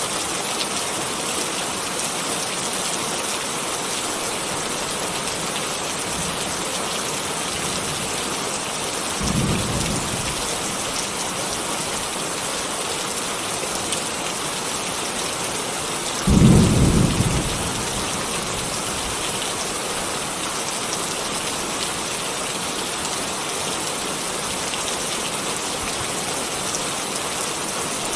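Steady rain with two short rumbles of thunder, a softer one about nine seconds in and a louder one about sixteen seconds in.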